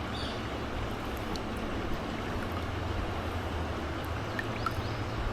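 Steady rush of flowing water with a constant low rumble underneath.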